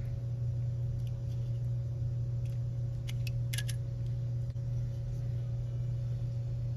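A few faint clicks and taps of small electronic parts being handled, two close together about three and a half seconds in, over a steady low hum.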